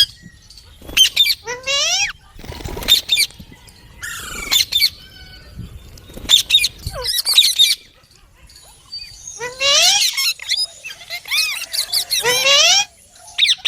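Pet rose-ringed parakeets squawking and screeching in short bursts, several birds calling over one another, with the busiest stretch of calls in the last few seconds.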